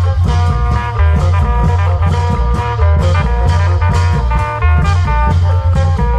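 Isan long-drum (klong yao) band music: drums and a heavy bass keep a steady beat under a repeating melody.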